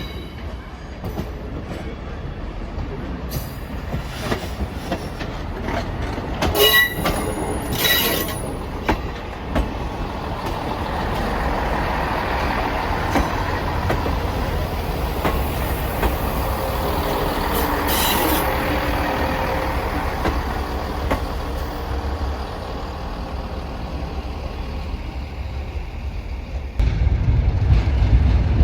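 Passenger train running on the rails: a steady rumble of wheels with a few brief high squeals. Near the end the low rumble suddenly grows louder.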